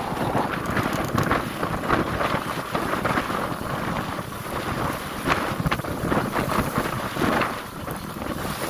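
Wind buffeting the microphone aboard a passenger motor boat in rough water, a steady rushing noise with the low rumble of the boat and its engine, and waves underneath.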